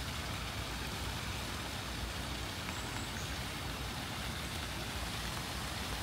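Steady rain with an even hiss and a low rumble underneath, with no separate events standing out.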